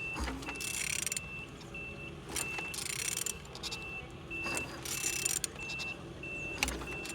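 A used engine being turned over by hand, with a hissing rush about every two seconds and scattered clicks as it rotates, showing that it turns freely. A short high electronic beep repeats steadily about twice a second in the background.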